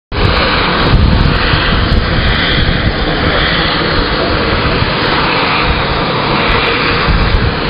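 Loud, steady turbine rush of a UH-60J helicopter during engine start, with a fluctuating low rumble underneath.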